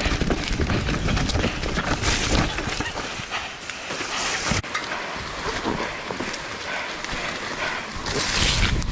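Wind buffeting the camera microphone over the hiss and rattle of a Polygon Siskiu T8 mountain bike riding a wet trail. The low buffeting stops abruptly about halfway through, leaving a steadier hiss.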